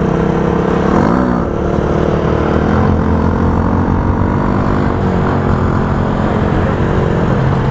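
Carbureted motorcycle engine running steadily while riding, its pitch dipping briefly about a second in and again about five seconds in.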